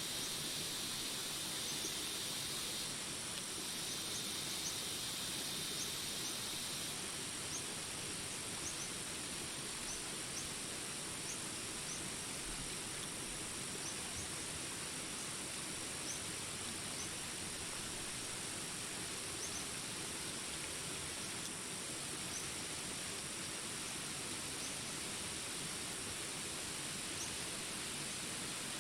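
Rain falling steadily over jungle ambience, with a constant high insect trill and short chirps repeating every second or so. A buzzing insect chorus carries on alongside for the first seven seconds or so, then stops.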